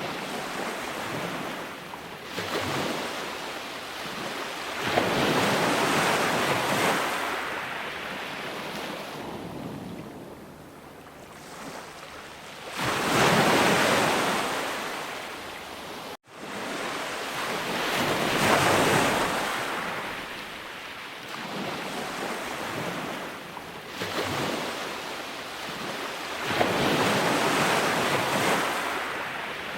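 Ocean surf: waves breaking and washing in and out, swelling and fading roughly every five to eight seconds. The sound cuts out for an instant just past halfway.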